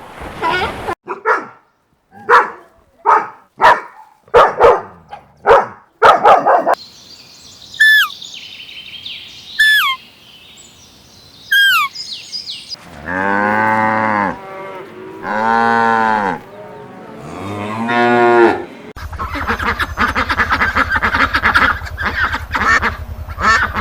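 Cattle mooing: three long, arching moos about a second apart in the middle. Around them are other farm-animal calls: a run of short sharp calls at the start, a few high chirps, and a dense chatter of calls with a low hum near the end.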